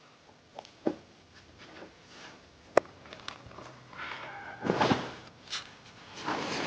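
Light handling noises: a few soft clicks and knocks, one sharp click about three seconds in, then two longer noisy stretches near the end, each lasting about half a second to a second.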